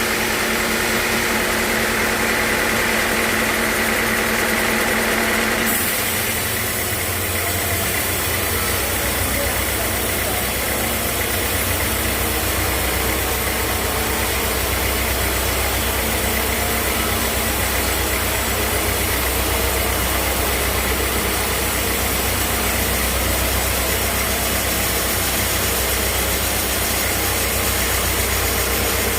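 Sawmill machinery running steadily with a low engine-like hum. The sound changes abruptly about six seconds in, with the higher tones giving way to a deeper drone.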